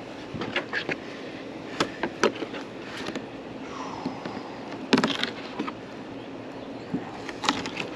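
Scattered clicks and knocks of fish fillets and a knife being handled on a fish-cleaning table, with one louder knock about five seconds in, over a steady low hum.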